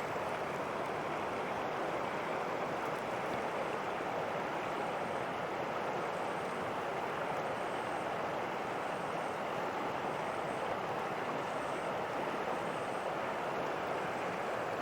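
Rushing water of a rocky mountain stream, a steady, even wash with no breaks.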